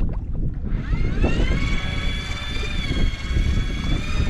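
Electric fishing reel's motor winding line in after a bite, its whine rising in pitch about a second in and then holding steady, over a low rumble.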